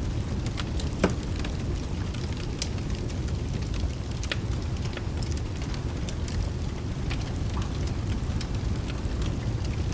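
Fireplace crackling: scattered sharp pops and snaps, one louder pop about a second in, over a steady low rumble of rain and fire.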